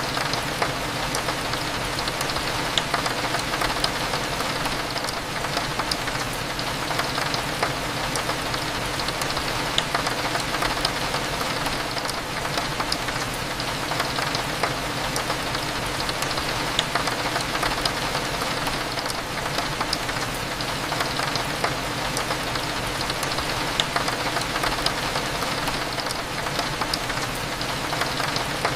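Steady rain on a window, with many small drop taps scattered throughout, over a low steady hum of cafe ambience.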